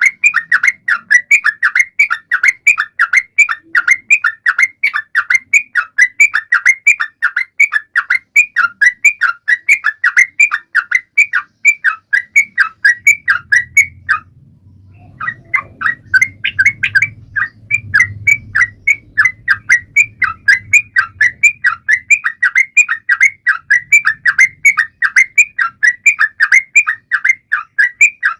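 Trucukan (yellow-vented bulbul) calling in a fast, even run of short, downward-sliding chirps, about three or four a second, with a break of about a second halfway through.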